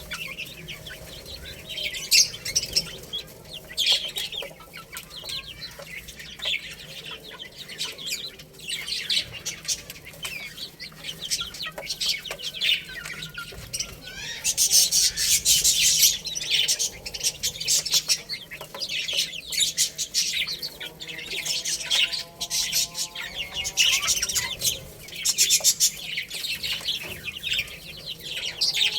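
Baby chicks chirping and pecking, with a dense patter of small clicks and a louder burst of rustling or wing flapping about halfway through. A lower chicken call comes in briefly about three quarters of the way through.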